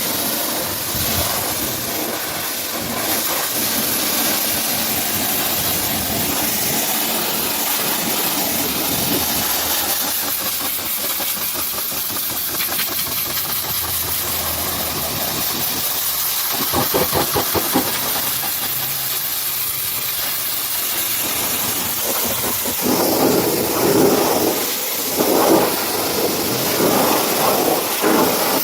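High-pressure washer spraying, a steady loud hiss with the washer's motor running underneath; the spray turns uneven and sputtering in the second half.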